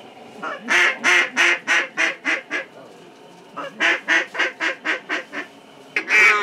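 A duck call blown close by, giving two descending series of mallard hen quacks, each about eight or nine quick notes that start loud and fade. A louder, faster run of calling starts near the end.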